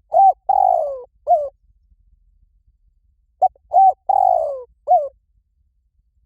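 Spotted dove calling: two phrases of coos about three and a half seconds apart. Each phrase has short coos around a longer coo that falls in pitch.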